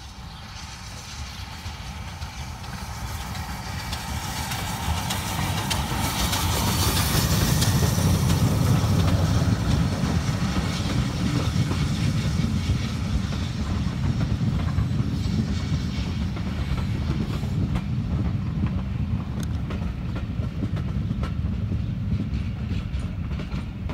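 Steam-hauled passenger train passing: the sound grows as the locomotive approaches, is loudest about eight seconds in, then the coaches roll by with a steady low rumble and the clicking of wheels over rail joints.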